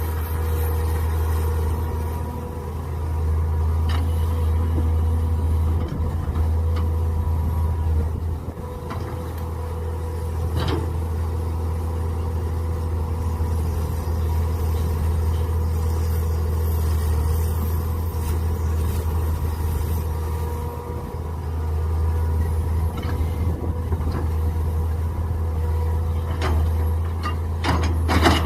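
Mini excavator engine running steadily under working load, its level swelling and dipping as it works. There are a few sharp knocks, about four seconds in and about eleven seconds in, and a quick run of them near the end.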